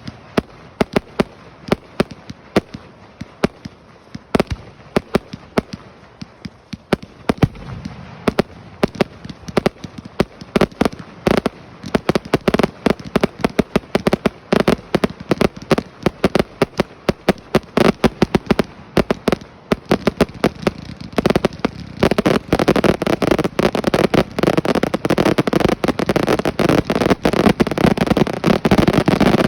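Fireworks going off: a rapid run of sharp pops and crackles that grows denser and louder, becoming a nearly continuous crackling barrage for the last several seconds.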